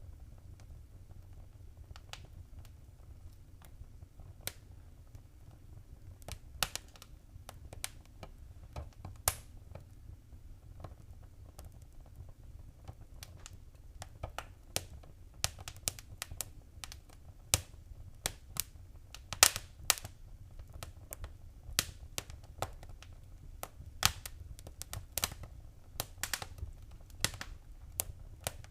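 Wood fire crackling in a fireplace: irregular sharp pops and snaps over a low steady rumble. The crackling grows busier and louder about halfway through.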